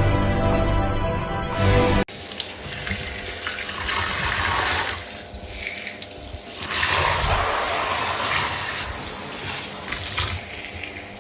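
Background music, then an abrupt cut about two seconds in to a steady rush of running water, with faint music still under it.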